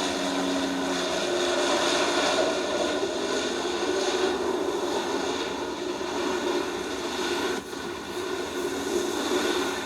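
Jet airliner engines running: a steady rush of noise with faint whining tones.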